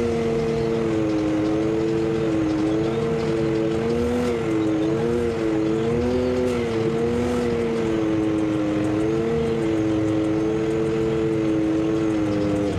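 A vehicle engine running at a steady cruise, its pitch wavering gently up and down with small throttle changes.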